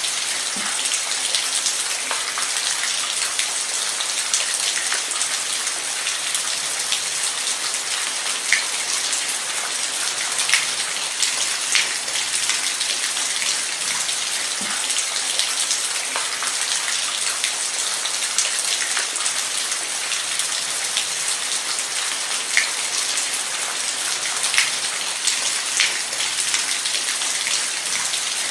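Steady rain falling, an even hiss with a few louder single drops tapping now and then.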